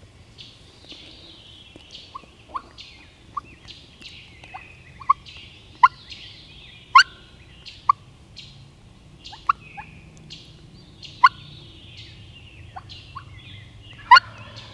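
Wild turkey gobblers gobbling repeatedly from the roost, several birds answering one another. A dawn chorus of songbirds sings behind them.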